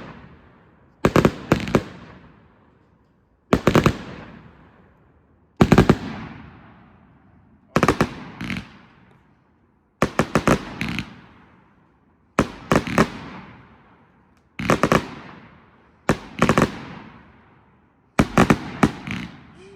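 205-shot consumer fireworks cake firing a volley of loud aerial bursts about every two seconds, each volley a quick cluster of sharp bangs that fades off before the next.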